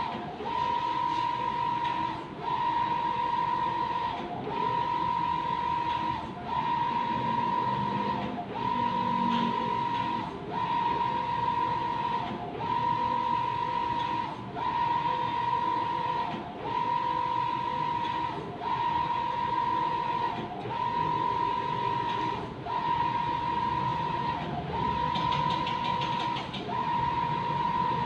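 Mimaki JV33-160 BS wide-format inkjet printer printing, its print-head carriage sweeping back and forth with a steady whine. The whine breaks off briefly about every two seconds as the carriage reverses at the end of each pass.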